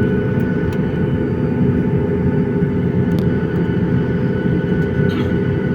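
Steady drone of a jet airliner heard inside the passenger cabin: a low hum with a few thin, steady whining tones over it.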